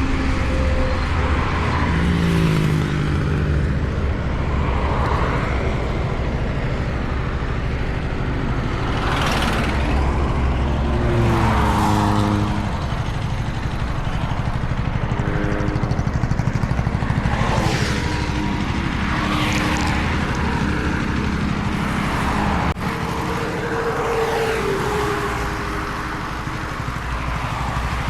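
KTM Duke 250's single-cylinder engine running at road speed under wind and road noise, its pitch shifting in steps several times. Several whooshes of other vehicles passing.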